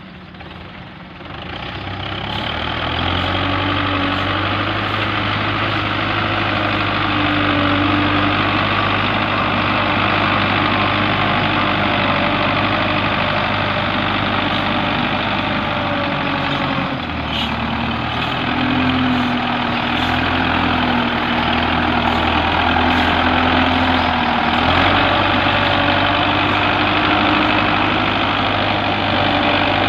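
Tractor's diesel engine running steadily. It grows louder about two seconds in and briefly dips about halfway through before carrying on.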